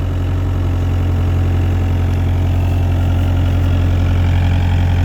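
Excavator engine running steadily at idle, a continuous low hum.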